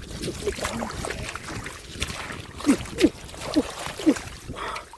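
Splashing and sloshing in the shallow muddy water of a drained rice field, with scattered small clicks. In the second half come four short sounds that slide down in pitch.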